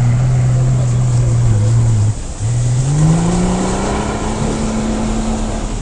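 Off-road vehicle engine running under load at a steady pitch. About two seconds in it drops off briefly, then revs up in a rising pitch and holds a higher note.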